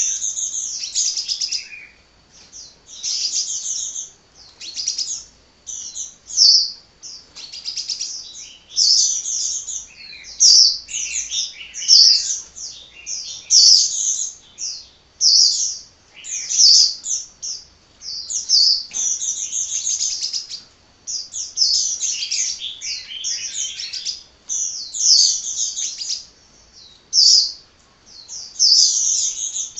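A sunbird (the Indonesian 'kolibri') singing without a break: rapid, high-pitched twittering phrases one after another, with only brief pauses.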